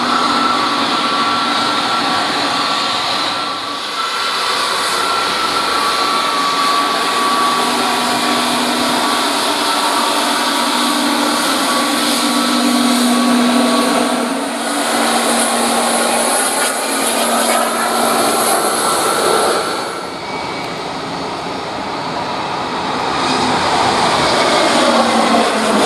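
Airbus A321neo jet engines at takeoff thrust, a loud steady roar with a high engine whine running through it. Near the end the pitch of the whine falls as the aircraft goes past.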